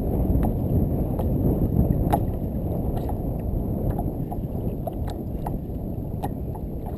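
Steady low rumble of wind and water noise on the microphone of a kayak on open water, with light sharp clicks about every half second to a second.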